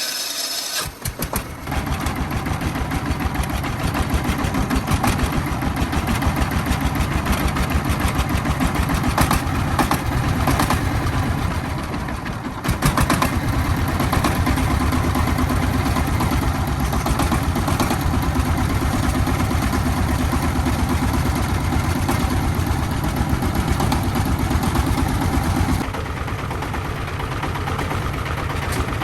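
Tractor engine running steadily after starting, with a rapid, even firing pulse.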